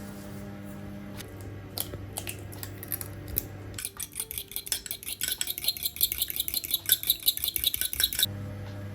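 A metal utensil clinking rapidly against a dish: a few scattered clinks, then about four seconds of quick, continuous clinking, as in beating something in a bowl.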